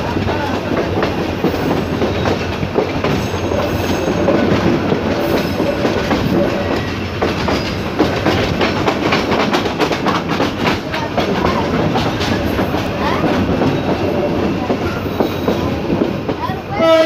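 Passenger train coach running over jointed track and junction points, heard from a coach window: a steady rumble with a rapid clickety-clack of wheels over rail joints. Just before the end the locomotive's horn starts to sound, louder than the running noise.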